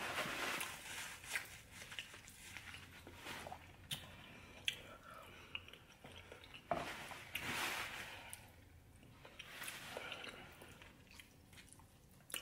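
A person eating oxtail stew close to the microphone: wet chewing and biting, with sharp mouth clicks scattered through. It is loudest at the start and again about seven seconds in.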